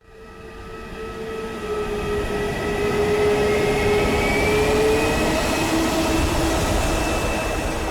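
A passing vehicle: a rushing noise with several whining tones that drift slightly in pitch, building over the first three seconds and then holding steady.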